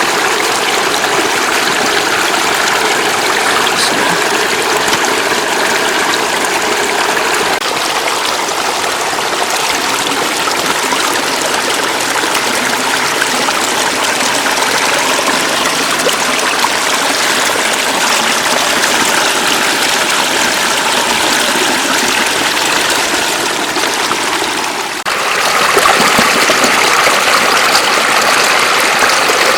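Floodwater flowing and splashing steadily across a road, a continuous rushing noise; near the end it dips briefly, then carries on slightly louder.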